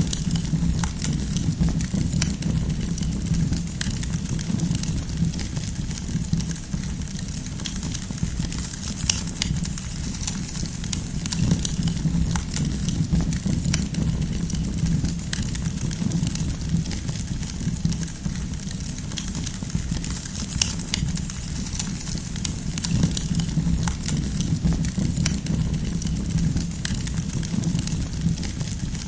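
Campfire of burning firewood crackling: scattered sharp pops and snaps, a few louder than the rest, over a steady low rumble.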